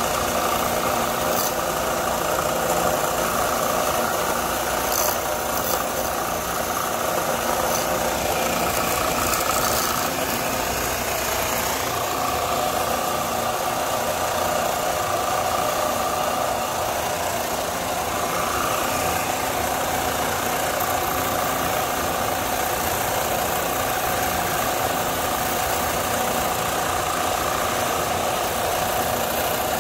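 A motor running steadily at a constant pitch, with a few faint clicks.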